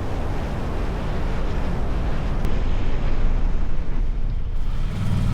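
Wind rushing over the microphone of a 2006 Harley-Davidson Street Glide under way, over the low rumble of its V-twin engine. About five seconds in, the wind drops away and a steady low engine hum is left as the bike slows.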